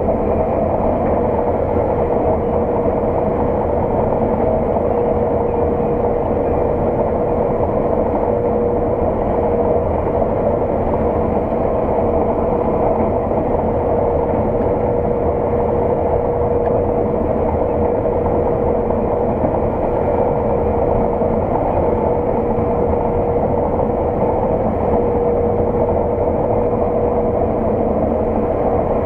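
Harvest machinery running steadily under load: a constant engine and drive drone with a steady whine in it, unchanging throughout.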